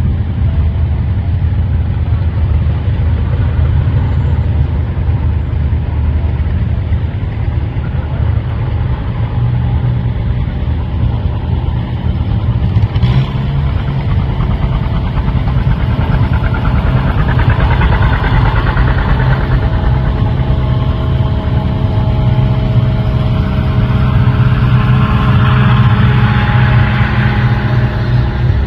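Vehicle engine running steadily under way, with a low, even drone. A rushing noise swells twice in the second half.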